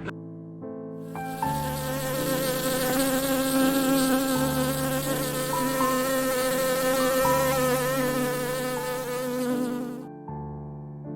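An insect buzzing steadily, starting about a second in and stopping shortly before the end, over soft background music with held notes.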